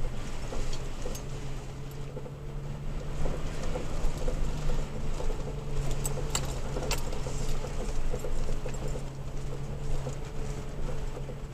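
Toyota Tacoma pickup's engine running steadily as the truck drives slowly over a dirt road, heard from inside the cab. Light rattles and clinks come from loose items in the cab, with a couple of sharper clinks about six to seven seconds in.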